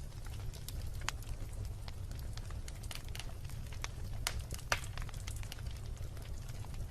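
Wood bonfire burning, with irregular crackles and sharp pops over a steady low rumble. The loudest pop comes a little past the middle.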